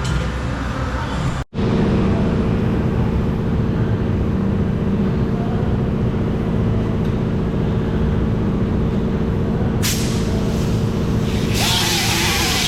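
A motor running steadily with a low, even hum, joined by a hiss of air near the end.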